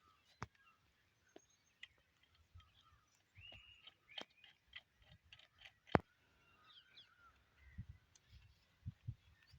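Scattered sharp clicks and knocks, the loudest one about six seconds in, with faint short bird-like chirps between them.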